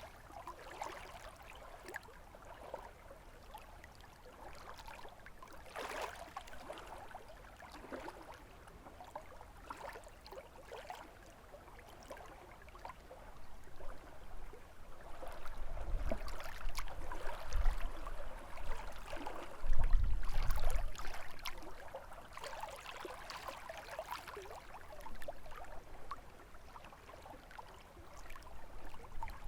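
Small lake waves lapping and splashing irregularly at the shore. Low rumbling gusts of wind on the microphone come in around the middle, strongest about two-thirds of the way through.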